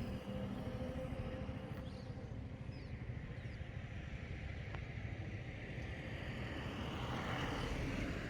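Motorcycle engine running with road and wind noise, a steady low rumble.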